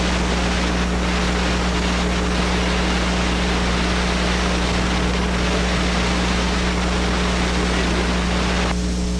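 Steady rushing noise with a low hum underneath. The rushing drops away abruptly near the end while the hum carries on.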